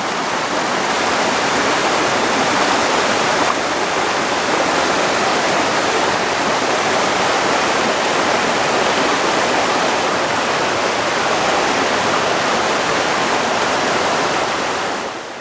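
Waterfall of about ten metres, a straight drop, pouring into its pool: a steady, dense rush of falling water that eases off just before the end.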